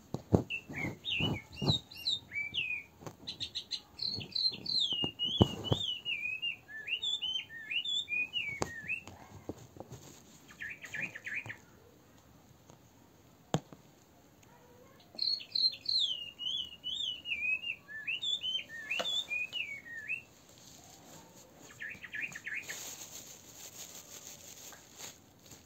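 A songbird singing: two long warbling phrases of quick rising-and-falling chirps, each followed by a short fast trill. A few sharp knocks and taps in the first six seconds are the loudest sounds.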